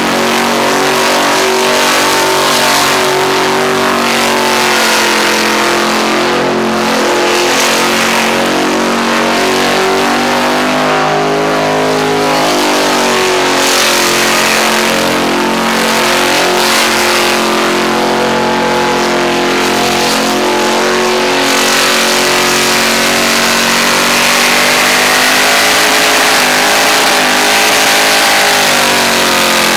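Supercharged Holden VK Commodore engine held at high revs through a long burnout, its pitch sagging and climbing again as the throttle is worked.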